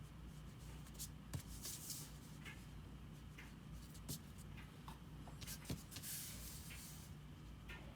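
Faint scratching of a drawing tool on paper: short strokes and light taps, with longer runs of scratching about two seconds in and again around six seconds, over a low steady hum.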